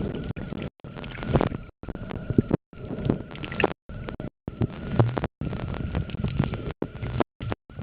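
Muffled water and rubbing noise picked up by a compact camera sealed in a plastic waterproof pouch, with knocks, cutting out into brief silences every second or so, and a faint steady whine.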